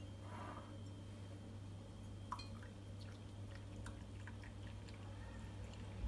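Quiet room tone: a steady low hum with a few faint, small clicks and taps.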